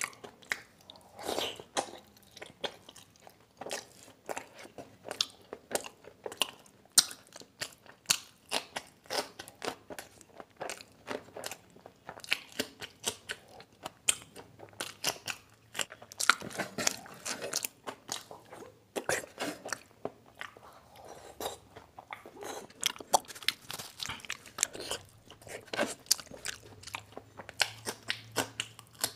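Close-miked eating sounds: wet chewing and lip-smacking of chicken liver curry eaten by hand, with crunchy bites into raw green chillies, in a dense run of short clicks and crunches.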